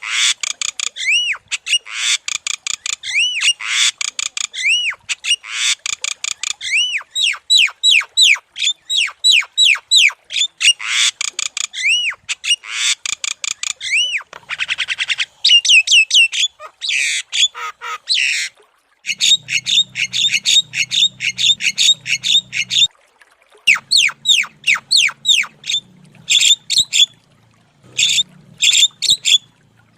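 Javan myna (jalak kebo) singing vigorously: long, rapid runs of harsh squawks and chattering notes mixed with quick whistled sweeps that rise and fall, broken by a few short pauses. A low hum sits under the song from about two-thirds of the way through.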